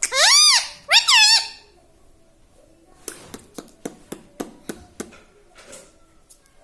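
Indian ringneck parrot giving two loud, squeaky calls that rise and fall in pitch in the first second and a half. About three seconds in, a run of sharp clicks follows, several a second.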